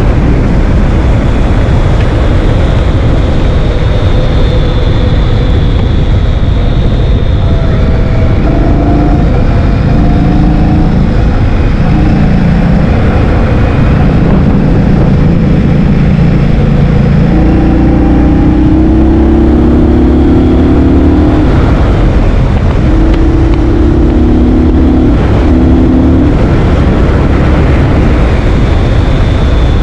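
Heavy, constant wind buffeting on the microphone while riding a scooter, with a motor's hum underneath that shifts up and down in pitch in steps through the middle.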